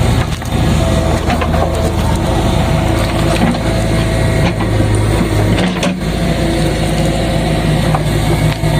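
Diesel engine of a JCB backhoe digger running steadily, with a few short knocks.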